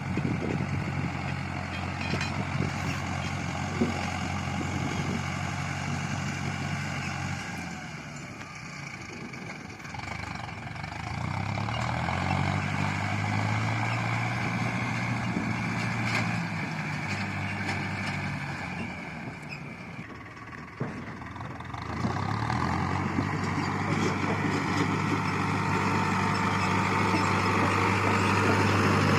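Tractor's diesel engine running steadily while pulling a land leveller. Its note dips and then picks up again twice.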